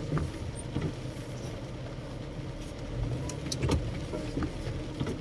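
Car running, heard from inside the cabin as a steady low rumble, with a few scattered sharp clicks and taps.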